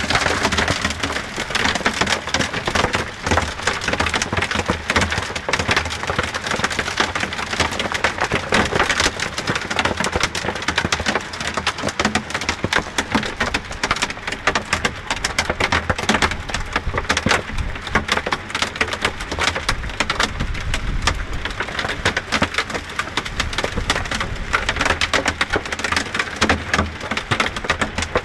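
Hailstones pelting down in a heavy hailstorm, a dense, continuous clatter of countless small impacts.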